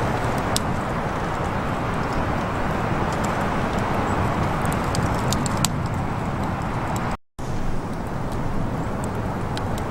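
Small campfire burning down, with scattered sharp crackles and pops over a steady rushing background noise. The sound cuts out for a split second about seven seconds in.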